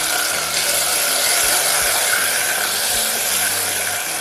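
Hot oil sizzling steadily as whole shallots and tomato pieces fry in a pot.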